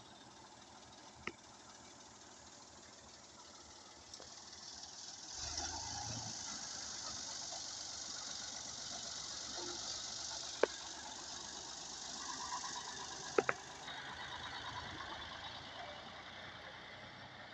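Ford tractor engine running steadily, growing louder about five seconds in, with a few sharp clicks over it.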